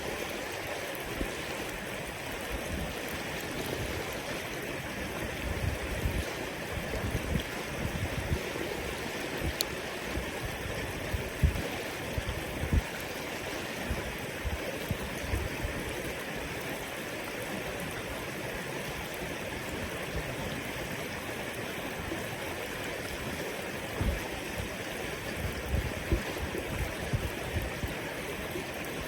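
River water flowing steadily in an even rush, with brief low bumps now and then.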